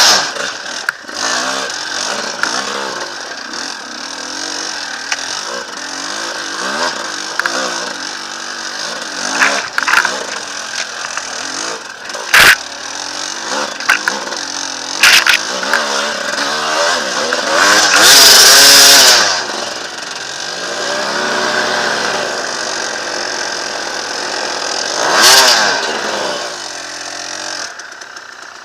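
Dirt bike engine revving up and down again and again under load in mud, with scattered knocks and clatter; it is loudest in a burst about 18 seconds in.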